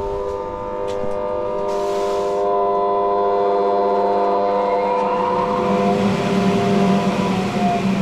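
Electric blower fan for a homemade forge running steadily: a whine made of several steady tones, over the hiss of rushing air. The air noise grows louder a couple of seconds in, and the pitch shifts slightly around the middle.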